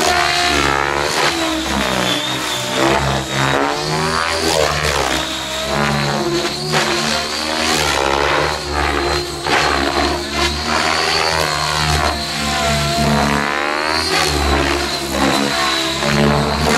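Electric radio-controlled helicopter flying on an Align 750MX brushless motor: a steady high motor whine over the rotor's chop, with the pitch of the rotor sound swinging up and down as it manoeuvres.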